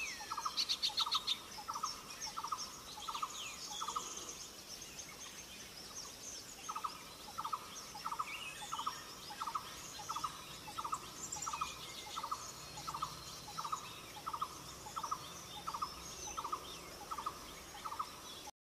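Wild birds calling: one bird repeats a short, low double note about one and a half times a second, pausing for a couple of seconds after about four seconds in, while other small birds chirp high and thin. All sound stops just before the end.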